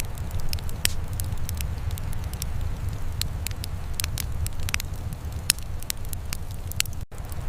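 Wood fire crackling, with irregular sharp pops and snaps over a steady low rumble. The sound drops out for a split second near the end.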